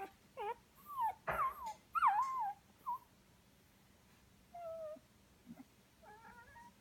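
Young Goldendoodle puppies whimpering and squeaking, a quick run of short high calls that bend up and down in the first three seconds, then a few fainter whimpers near the middle and end.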